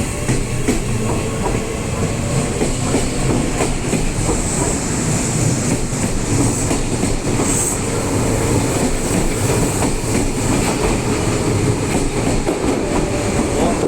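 Kintetsu Minami-Osaka Line electric train running on the rails, its wheels clattering over the rail joints in a steady, continuous rumble.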